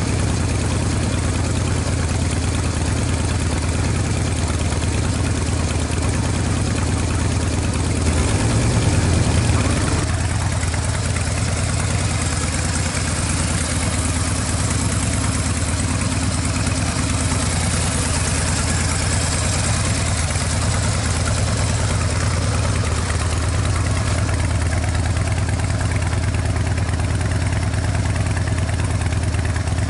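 2006 Harley-Davidson FXDL Dyna Low Rider's V-twin idling through freshly fitted mufflers, briefly louder about eight seconds in before settling back to a steady idle.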